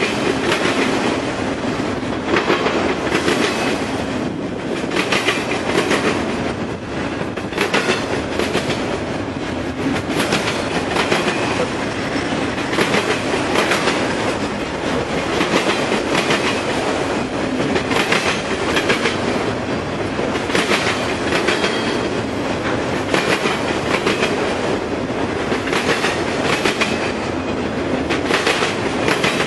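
A long train's cars rolling past, steel wheels rumbling on the rails with a steady clickety-clack of repeated clicks as the wheels cross rail joints.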